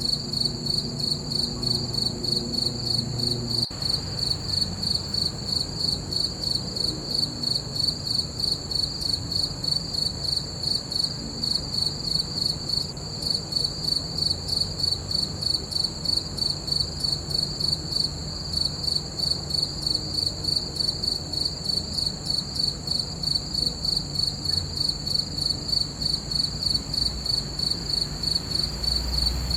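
Crickets chirping in a steady, even rhythm, a high pulsing chirp repeating about three times a second.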